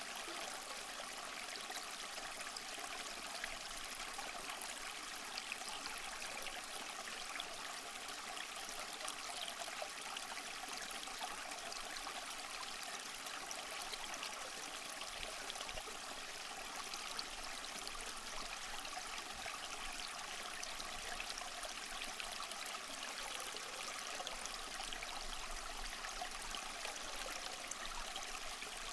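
Small waterfall splashing and trickling steadily over mossy rocks, a continuous bright water sound with little low rumble.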